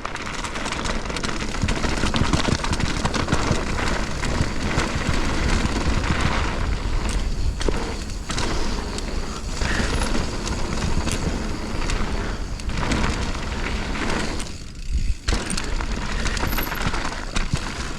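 Mountain bike descending a rough downhill trail: heavy wind buffeting on the mic with tyres rolling over dirt and rock, and the bike rattling and clattering over the bumps. There is a short dip in the noise about fifteen seconds in.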